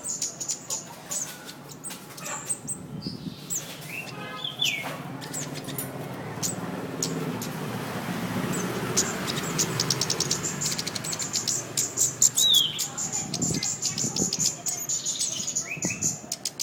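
A sepah putri (minivet) singing energetically: fast runs of high, sharp chirps with a few down-slurred whistled notes between them. A low rumbling noise swells in the middle.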